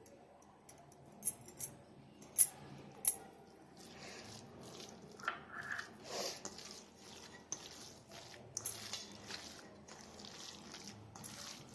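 Spoon and bowl handling while baking powder goes into crumbled chhena: a few sharp taps in the first three seconds, then softer scraping and rustling.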